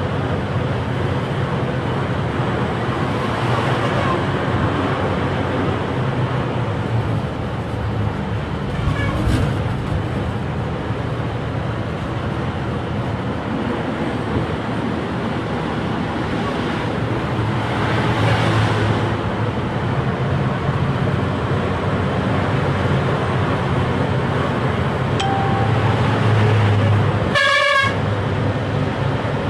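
A truck running steadily along the road, with engine hum and road noise. A vehicle horn sounds briefly near the end.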